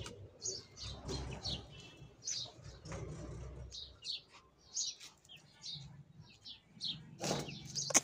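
Many short, high chirps of small birds, scattered through the whole stretch, over a low rustling of handling noise in the first few seconds.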